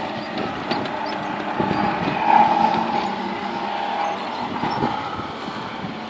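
Quad bike engine running, growing louder about two and a half seconds in, then slowly fading.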